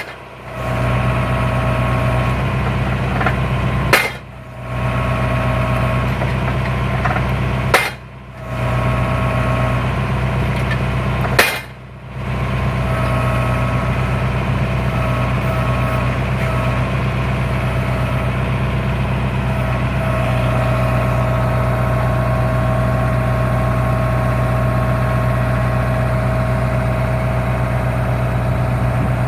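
Tractor engine running steadily while a tractor-mounted post knocker's weight drops onto a post four times, about four seconds apart; each strike is a sharp thud. The engine keeps running alone for the rest of the time.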